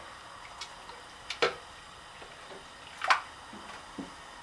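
Chicken broth being poured by the cupful into a pot of mole sauce: a few short splashes and clinks, the two strongest about a second and a half and three seconds in.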